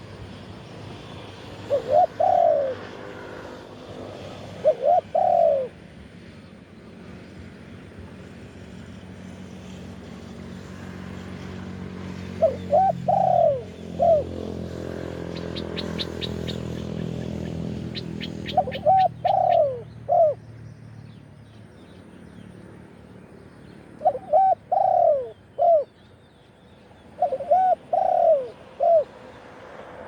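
Spotted dove cooing: six short phrases of two to four rounded coos, one every few seconds. Midway a low engine hum swells and fades as a vehicle passes, with a quick run of ticking at its loudest.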